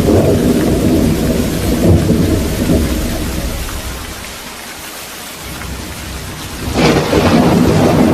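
Thunderstorm: thunder rumbling over steady rain. The rumble dies away to rain alone midway, then a sharp new thunderclap breaks in near the end and rumbles on.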